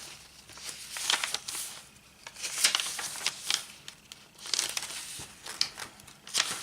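Paper pages and inserts of a handmade journal being turned and handled: irregular rustling and crinkling in three bouts with short quieter gaps between them.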